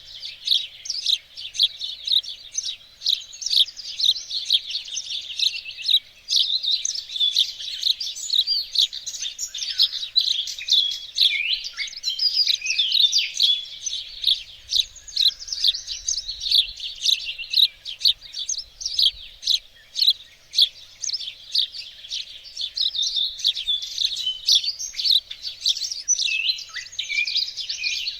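Several small songbirds singing and chirping at once in a dense, unbroken chorus of quick high chirps and trills.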